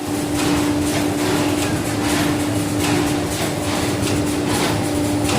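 VPD250-C automatic four-side sealing wet wipes packing machine running: a steady hum under continuous mechanical noise, with repeated sharp clacks from its moving parts.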